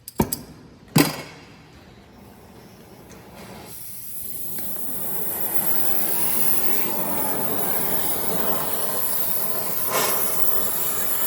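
Gas torch being lit with two sharp pops about a second apart. The flame's hiss then builds over a couple of seconds and holds steady as it heats a seized wheel-stud nut to loosen it.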